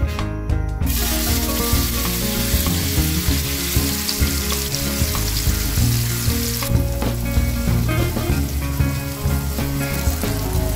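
Tofu cubes frying in hot oil in a nonstick pan: a loud, steady sizzle that starts suddenly about a second in as the tofu goes into the oil, with the scrape of a plastic spatula turning the pieces.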